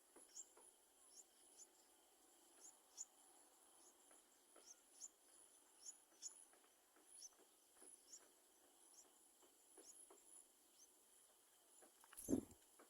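Faint outdoor ambience: a steady high insect trill with short, high, falling chirps repeating about once or twice a second, and a single dull thump near the end.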